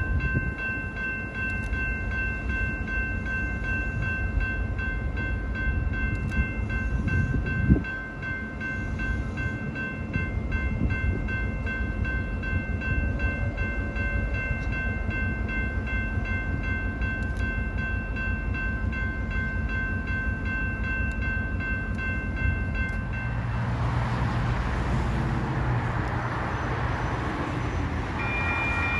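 A train running past: a steady low rumble with a long, steady high-pitched ringing tone held for most of the stretch. Near the end it turns to a louder rush of wheel and rail noise, and a different high tone starts up.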